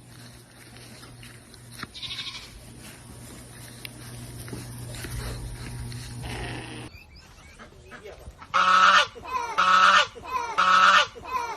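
A faint steady hum, then a goat bleating loudly three times, about a second apart, each bleat wavering in pitch.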